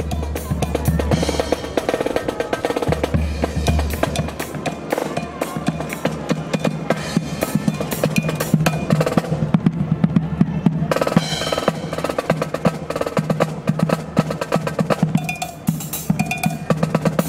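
Marching band drums playing: rapid snare drum strokes and rolls over bass drum, with a few short pitched notes near the end. Gusts of wind rumble on the microphone about a second in and again around three to four seconds in.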